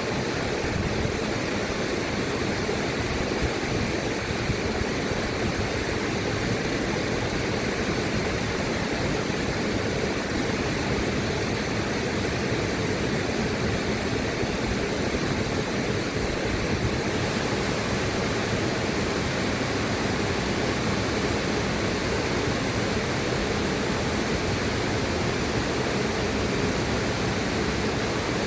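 River water rushing steadily, an even unbroken noise with most of its weight in the lower and middle range. About two-thirds of the way through, the higher hiss gets slightly brighter.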